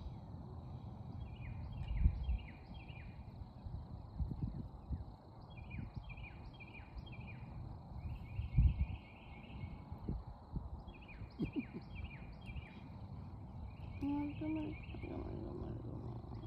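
A songbird singing repeated phrases of four or five clear down-slurred whistles, with a faster run of notes about eight seconds in, over low thumps on the microphone.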